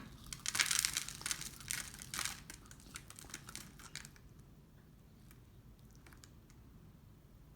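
Packaging being crinkled and torn for about four seconds, a dense crackling that gives way to a few faint clicks, as a snack pack of pizza-flavoured Pringles is handled and opened.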